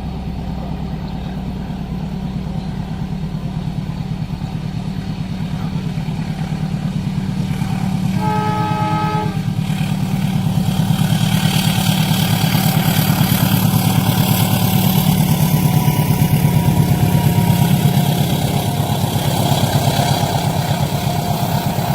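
Diesel locomotive drawing a train past a level crossing: a steady low engine throb grows louder, the horn sounds once briefly about eight seconds in, then the wheels run loudly over the rails with a thin high squeal, typical of wheels on a curved track.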